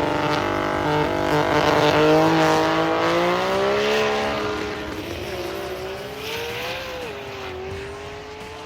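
Drag racing cars at full throttle down a quarter-mile strip. The engine note climbs steadily and fades as they pull away, with a brief waver in pitch about seven seconds in.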